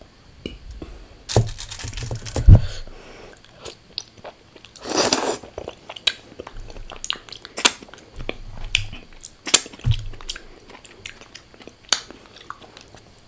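Close-miked mouth chewing and crunching of crisp fried food, with irregular sharp crunches and one longer crunch about five seconds in.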